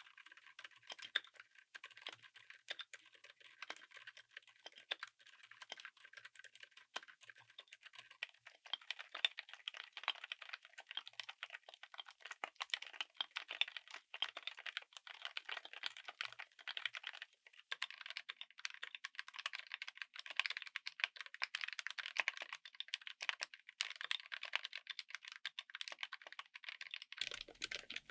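Continuous fast typing on a mechanical keyboard fitted with silent (dampened) switches: a dense run of keystrokes, with the sound shifting slightly in character about 8 and 18 seconds in.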